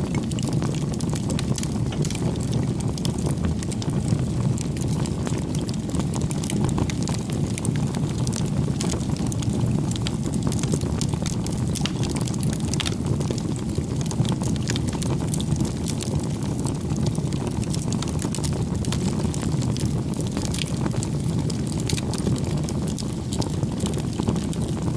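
Wood fire crackling: a steady low rumble of burning with frequent small pops and snaps.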